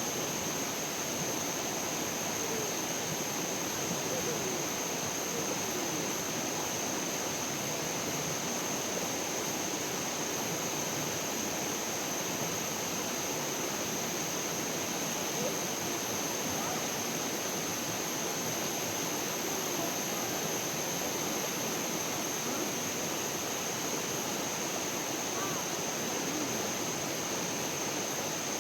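Steady rush of flowing stream water, an even noise with no breaks, with a steady high-pitched tone running above it.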